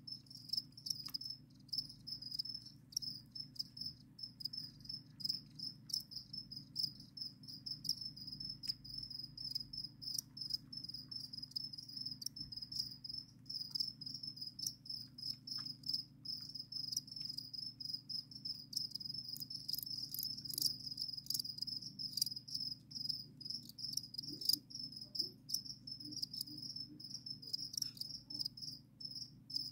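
Captive crickets chirping continuously, many calls overlapping into one steady high-pitched trill, over a steady low hum.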